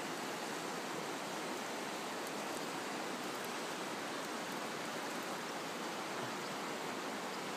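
Steady rushing of a river running over rocks, an even wash of water noise with no change.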